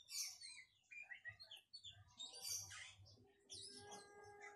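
Faint high-pitched bird chirps: a few short calls spread through, with a faint steady low tone in the last second or so.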